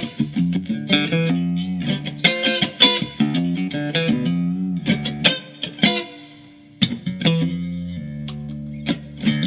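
Mexican-made Fender Stratocaster electric guitar, tuned to drop D and freshly set up, played in a run of picked notes and chords, with a short pause just past halfway.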